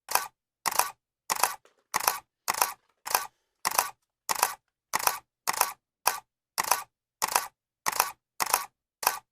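Camera shutter clicking over and over at an even pace, about one and a half to two clicks a second, each a sharp click with a short tail, with silence between them.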